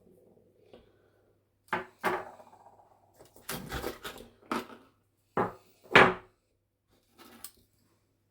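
Hard objects from a box of collected stones and nature finds knocking and clattering as they are lifted out and set down. There is a series of separate knocks, with a short rattling cluster near the middle and the loudest knock about six seconds in.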